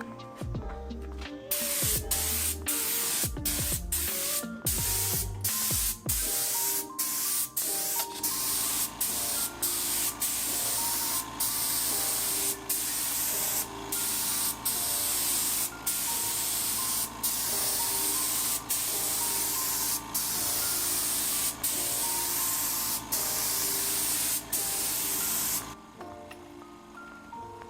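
Compressed-air cup spray gun (Anest Iwata Campbell MX4015) spraying a clear water-based urethane varnish: a loud, steady hiss that cuts off briefly again and again as the trigger is released between passes. It stops shortly before the end.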